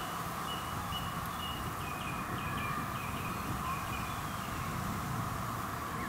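Outdoor meadow ambience: a bird sings a run of short, high notes in the first half, over a steady background hiss.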